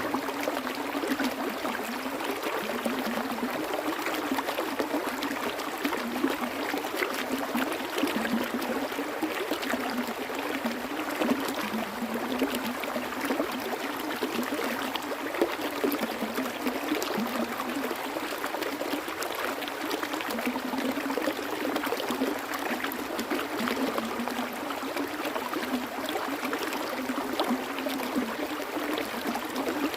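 Flowing water, a small stream running and trickling steadily, with a dense patter of little splashes and almost no deep rumble.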